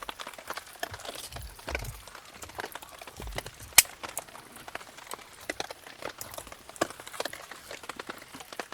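Wood campfire crackling with irregular small pops and one sharp loud crack about four seconds in, along with a few dull low knocks.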